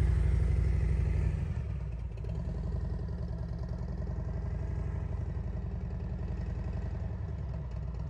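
Motorcycle engine running at low speed, louder for the first second or so, then easing off and running on steadily.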